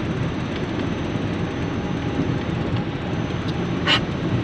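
Steady road and engine noise inside a small car's cabin at highway speed, with one short click near the end.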